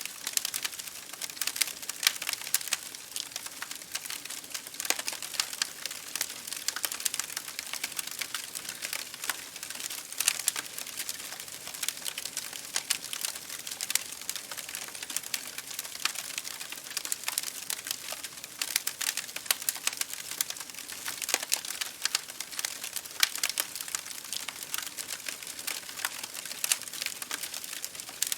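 Wood fire crackling in a fireplace, with dense irregular pops and snaps, over a steady hiss of rain against a window.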